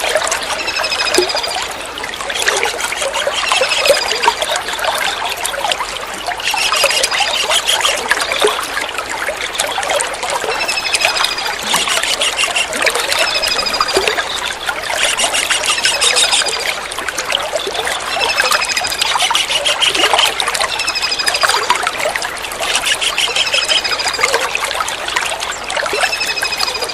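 Small kingfisher (tengkek udang) calling over a steady trickle of running water. High thin descending notes alternate with rapid trills, the calls coming back every few seconds.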